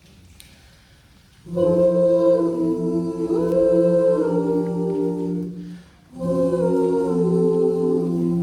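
Vocal ensemble singing wordless close-harmony chords a cappella. The first held chord enters about a second and a half in and fades out near the six-second mark, and a second chord starts right after it.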